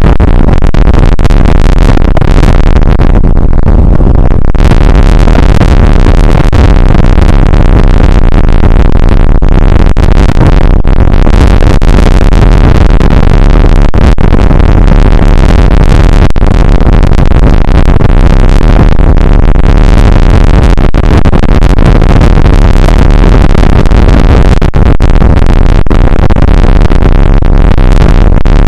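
Rain and wind on an outdoor weather camera's microphone, overloading it into a steady, harsh, distorted noise at full loudness.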